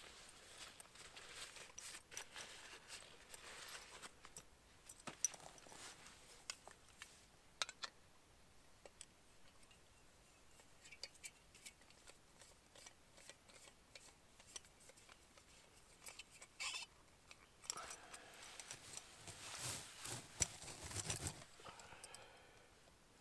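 Faint rustling and scattered sharp clicks and ticks, with a louder stretch of rustling near the end.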